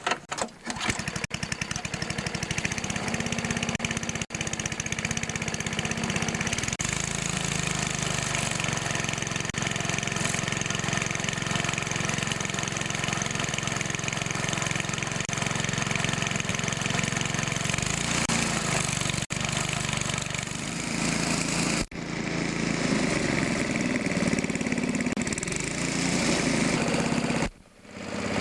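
Old 4 hp MTD snowblower's small single-cylinder engine catching on a cold start with choke and primer, firing unevenly for the first second, then settling into a steady, smooth run. It breaks off briefly near the end.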